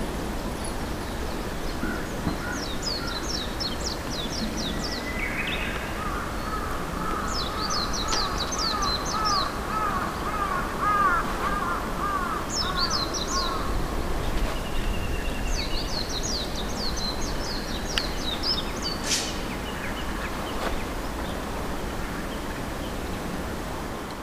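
Wild birds calling and singing outdoors over a steady background hiss. A high, quick chattering phrase comes about four times, and through the middle a lower run of rising-and-falling notes goes on for several seconds.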